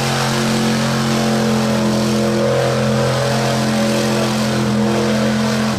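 A vehicle engine running hard at steady revs, holding one pitch, then cutting off suddenly at the end.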